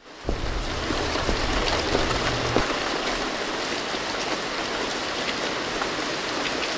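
Steady rain: an even hiss of falling rain with scattered drop ticks, over a low rumble for the first two and a half seconds or so.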